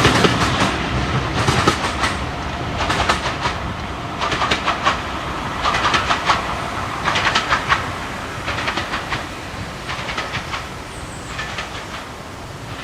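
Railway carriage wheels clicking over rail joints in repeated groups, about one group every second and a half, growing fainter as a diesel-hauled train draws away.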